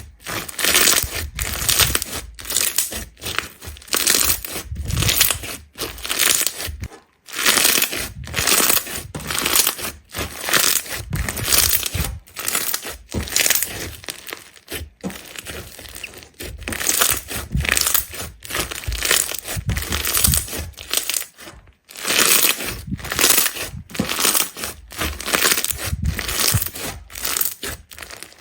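Crisp crackling, crunching strokes repeated about twice a second, with a few brief pauses.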